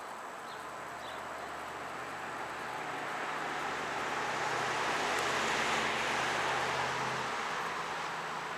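A vehicle passing by outdoors, its rushing noise swelling over a few seconds to a peak about halfway through and then fading away.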